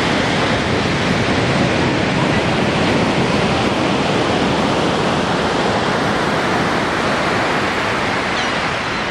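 Ocean surf breaking and washing up the beach: a steady, loud rush that slowly eases near the end.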